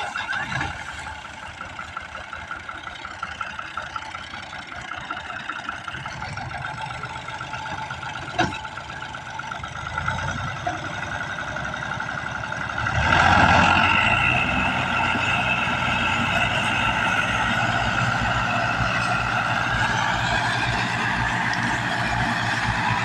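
Al-Ghazi tractor engine running steadily, then growing louder about 13 seconds in as it revs or takes load. A single sharp knock is heard about 8 seconds in.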